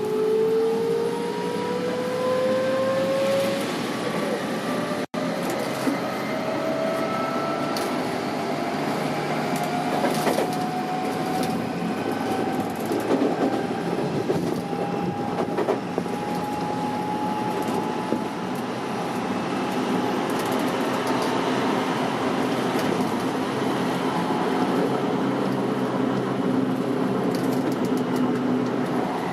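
Onboard running sound of a Tokyo Metro 06 series electric train. The motor whine rises in pitch as the train accelerates over the first several seconds, then levels off into steady wheel-on-rail rumble at running speed. There is a brief gap in the sound about five seconds in.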